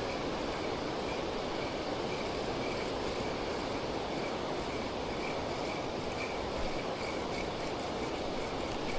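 Steady rush of water pouring over a weir: an even, unbroken noise, with faint small chirps on top.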